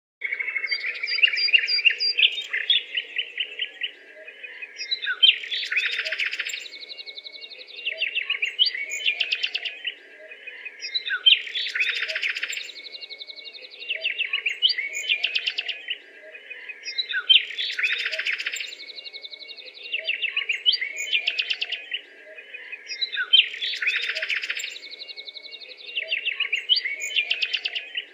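Birds chirping and twittering in quick trills, the same few-second pattern of calls repeating about every six seconds, like a looped recording.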